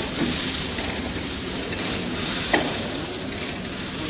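A single sharp metal clank with a short ring about two and a half seconds in, over steady hissing workshop noise.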